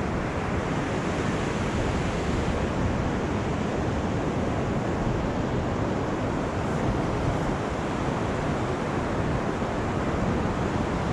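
Steady roar of Pacific Ocean surf breaking on the beach, an even wash of noise with no single crash standing out.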